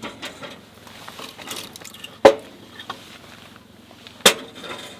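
Split firewood being loaded into a steel camping wood stove: two sharp wooden knocks about two seconds apart, with lighter clicks and rustling in between.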